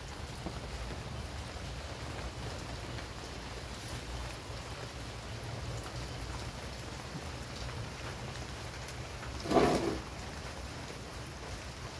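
Steady rain falling, an even hiss of drops, with one brief louder noise about nine and a half seconds in.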